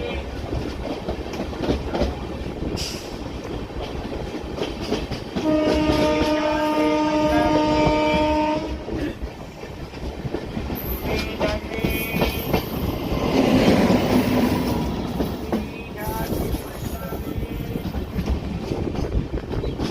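Indian Railways express train running, with a steady rumble and wheel clatter on the rails. The horn sounds one steady blast lasting about three seconds, starting about five and a half seconds in.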